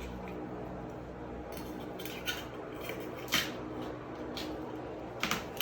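A few sharp clicks and clinks from handling a pair of scissors, the loudest about halfway through, over a low steady hum.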